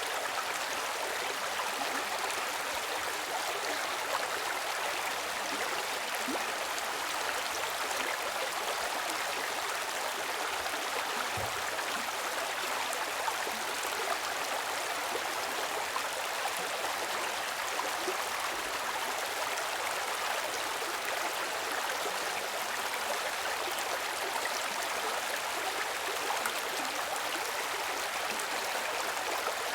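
Flowing water rushing steadily, an even unbroken stream sound.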